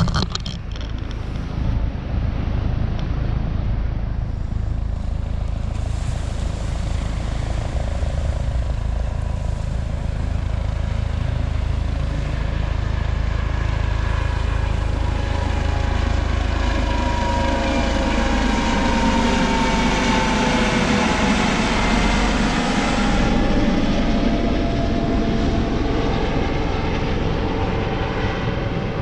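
Helicopter flying over, its engine and rotor rumble growing louder and then passing overhead with a falling pitch about two-thirds of the way through.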